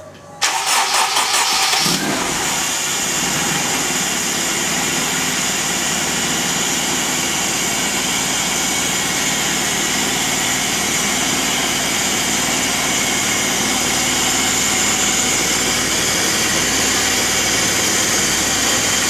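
Honda K20A2 2.0-litre four-cylinder engine with an SSR 4-2-1 header cranking on the starter for about a second and a half, catching about two seconds in, then idling steadily.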